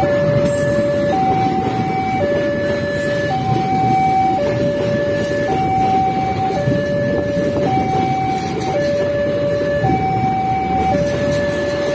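Railway level-crossing warning alarm sounding a slow two-tone signal, a higher note then a lower one, each held about a second and repeating without a break, over a steady low rumble.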